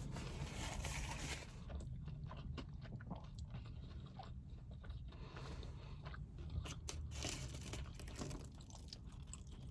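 A person chewing a mouthful of burger, with many small, irregular crunching clicks.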